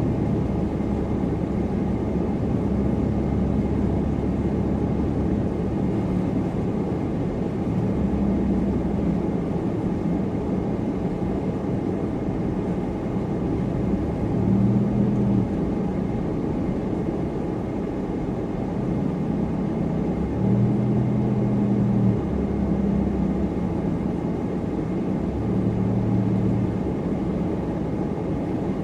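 Supercharged car driving steadily: a continuous engine drone and road rumble. The engine note swells briefly a few times, most strongly about halfway and about two-thirds in.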